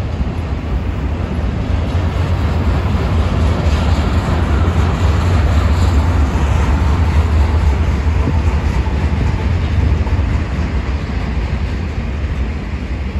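Double-stack intermodal freight train cars rolling past: a steady rumble and rattle of steel wheels on rail, growing a little louder toward the middle and easing near the end.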